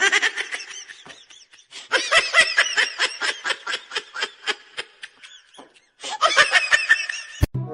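A person laughing hard in quick repeated bursts, in several bouts with short pauses, cut off abruptly near the end.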